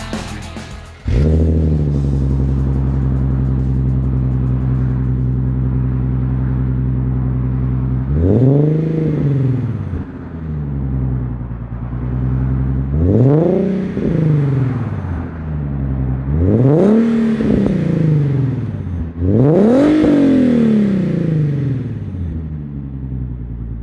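Nissan 370Z's 3.7-litre V6 through an aftermarket Fast Intentions exhaust, starting up about a second in and idling, then blipped four times, each rev rising and falling back to idle.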